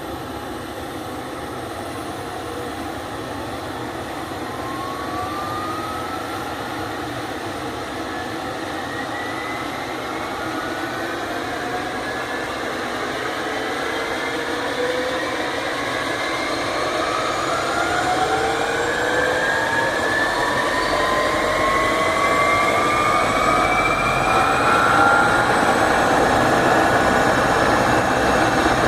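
Emergency medical helicopter's turbine engines and rotor running up: several whines rise slowly in pitch over a steady mechanical noise that grows steadily louder.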